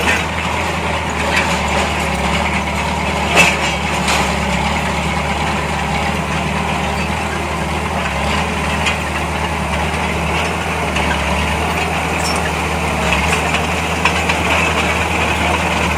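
Heavy diesel engine of earthmoving machinery running steadily at a low, even speed, with a single sharp clank about three and a half seconds in.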